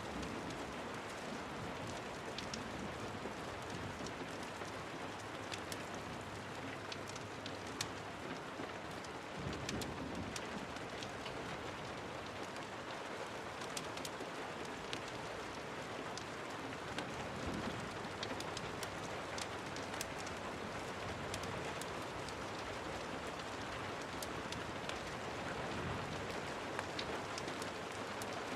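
Steady rain falling on a surface, with many sharp ticks of individual drops scattered through it. Low rumbles swell up about ten seconds in and again near eighteen seconds.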